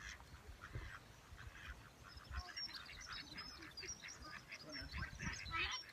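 Birds calling: a busy chatter of short, repeated calls, sparse at first and thicker from about two and a half seconds in, with higher chirps mixed in.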